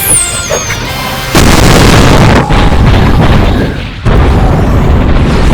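Mouth-made imitations of energy-blast explosions over background music. A loud, noisy blast starts about a second and a half in and lasts about a second, and another begins about four seconds in, after a brief high falling whistle at the start.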